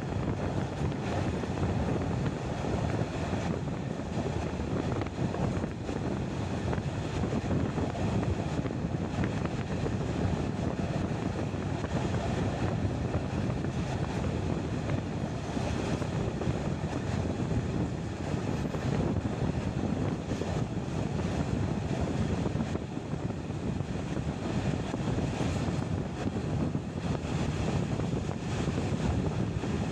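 Passenger train running at speed, heard at an open carriage window: a steady rumble of wheels on the rails with wind buffeting the microphone.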